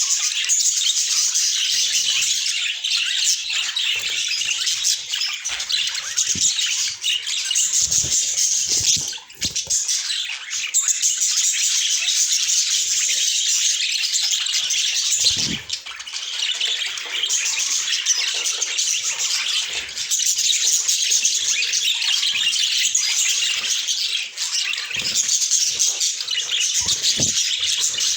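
A flock of caged budgerigars chattering and warbling continuously, with occasional soft knocks or wing flutters.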